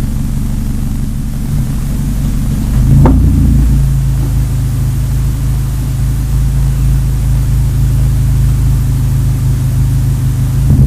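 2010 Acura TSX exhaust through Megan Racing aftermarket mufflers while driving, a steady low drone. About three seconds in it gets louder, with a brief sharp sound, then holds a steady note.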